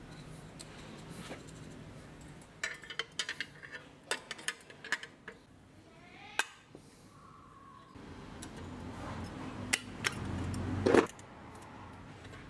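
Metal parts and tools clinking and tapping as they are handled, a quick run of sharp clicks, with a louder knock near the end.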